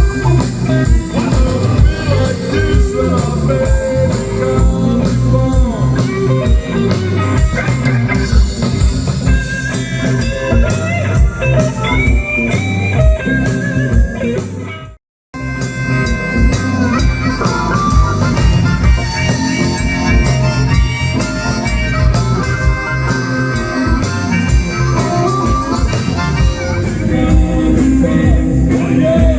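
Live blues band playing, with harmonica prominent over guitar and drums. The sound cuts out for an instant about halfway through.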